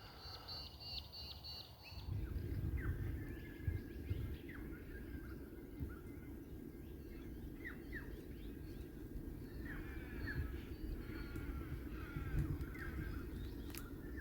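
Several wild birds calling outdoors: short chirps, quick downward-sliding calls and a brief rapid series of notes near the start. A low steady rumble sets in about two seconds in and stays under the birdsong.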